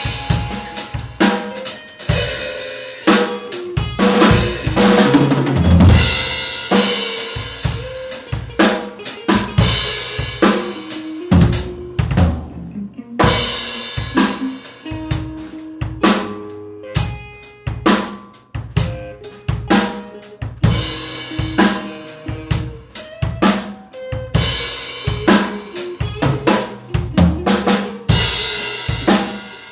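Drum kit played busily and loud in an improvised fusion-blues jam: rapid snare and bass-drum hits, rimshots and cymbal crashes, with a few short held notes sounding between them.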